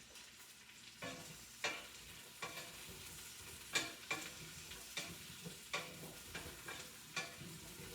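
Food sizzling in a pan while it is stirred. A spoon knocks and scrapes against the pan about a dozen times at uneven intervals.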